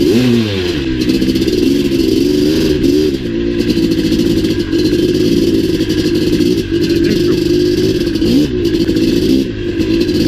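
Maico 700 single-cylinder two-stroke dirt bike engine running hard on a trail ride. Its pitch rises and falls with the throttle in the first few seconds, holds steadier through the middle, and dips and climbs again near the end.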